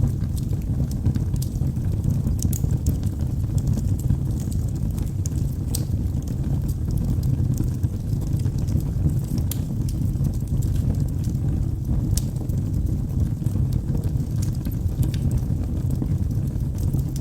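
Wood fire burning in a fireplace: a steady low rumble of flames with scattered sharp crackles and pops from the logs at irregular intervals.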